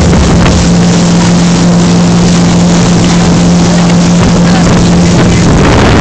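Boat engine running at a steady drone, a constant low hum under a loud rushing noise.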